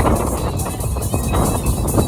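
Heavy wind buffeting on the microphone of an open-top Daihatsu Copen at driving speed, loud and rough, with music playing underneath.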